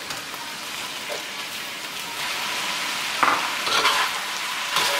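Sliced onion and ground pork sizzling in oil in a wok, the sizzle getting louder about two seconds in. A metal spatula stirs and scrapes the pan a few times in the second half.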